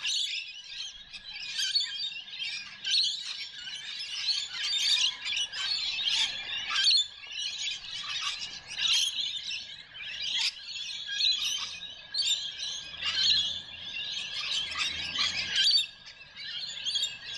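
Rainbow lorikeets calling with dense, overlapping, high-pitched screeches and chatter, continuous throughout.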